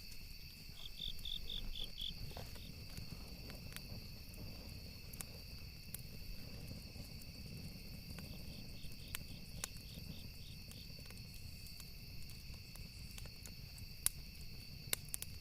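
Campfire ambience: burning wood crackling, with scattered sharp pops that are strongest near the end, over a low rumble. Insects trill steadily in the background, with two short bouts of pulsed chirping.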